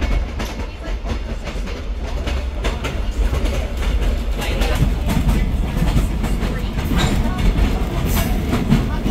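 Caboose train rolling along the rails: a steady low rumble of wheels on track with scattered clicks and rattles.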